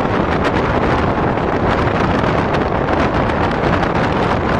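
Wind buffeting the microphone outside a passenger coach moving at speed, over the steady running noise of the train's wheels on the track. The noise is loud and constant, with faint irregular clicks.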